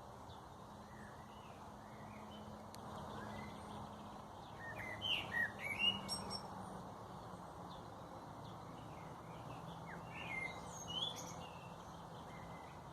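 Small birds chirping: a quick run of chirps about five seconds in and another shorter run about ten seconds in, over steady faint background noise.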